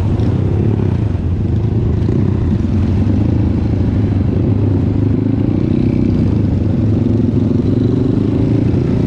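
Trail motorcycle engine running steadily at low revs.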